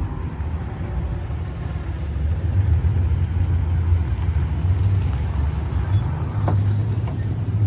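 A vehicle engine running with a low, steady rumble that grows louder over the first few seconds and then holds.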